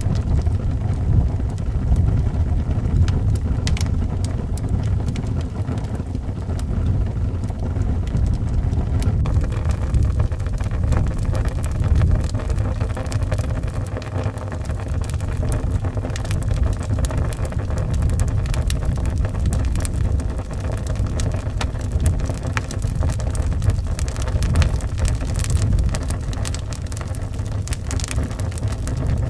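Wood fire crackling and popping in a fireplace over a steady low rumble of howling wind. The crackles grow denser about nine seconds in.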